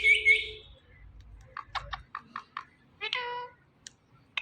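Talking parrot imitating a cat's meow: a drawn-out mewing call at the start and another about three seconds in, with a few short sharp chirps between them.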